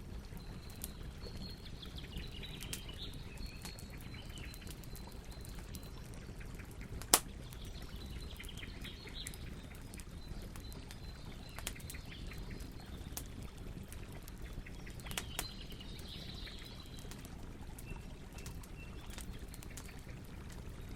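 Wood campfire crackling over a steady low rumble, with scattered sharp crackles and one loud pop about seven seconds in. Birds chirp faintly now and then in the background.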